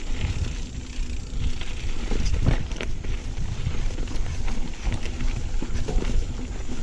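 Mountain bike being ridden over a rough dirt trail, heard from a GoPro on the bike or rider: a steady low rumble and rattle, with a short cluster of sharp knocks about two and a half seconds in.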